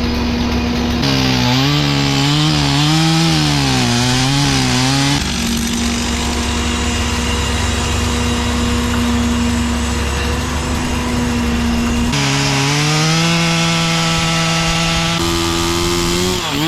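Two-stroke chainsaw at high revs cutting wood. Its pitch sags and wavers under load for a few seconds, then holds high and steady, and settles lower near the end.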